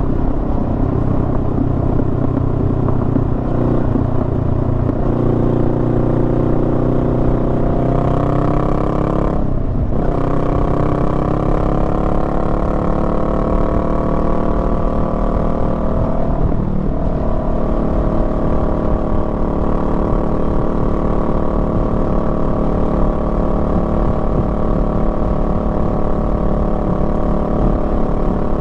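Honda Rebel 500's parallel-twin engine pulling along at road speed, its note rising steadily under throttle. It cuts out briefly for a gear change about a third of the way in, and shifts again a little past halfway before settling into a steady cruise, with wind rumble underneath.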